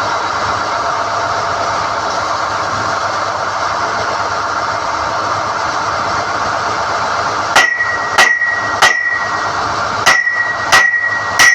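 SDH-1600 core drilling rig running steadily while NQ drill rods are pulled. About two-thirds of the way in come six ringing blows of a hammer on steel, three in quick succession, a short pause, then three more.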